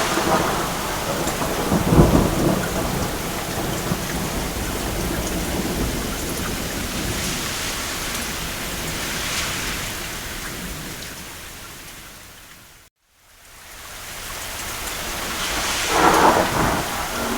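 Steady rain falling on a cabin roof with a low thunder clap about two seconds in. The rain fades away to a moment of silence about two-thirds of the way through, then swells back with another thunder rumble near the end.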